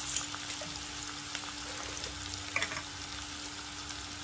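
Diced potatoes, onions and carrots sizzling as they fry in an aluminium karai, a steady hiss with a few light clicks, over a faint steady hum.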